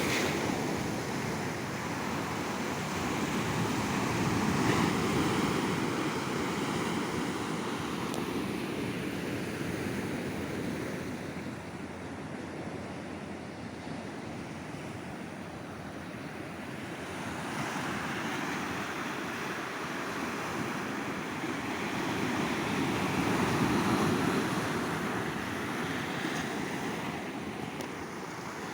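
Ocean surf breaking and washing up on a sandy beach, a steady rushing wash that swells and eases over several seconds. Louder surges come a few seconds in and again near the end, with a calmer lull in the middle.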